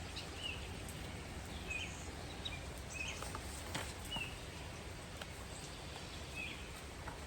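Faint bird chirps, short and repeated about once a second, over a low steady background hum.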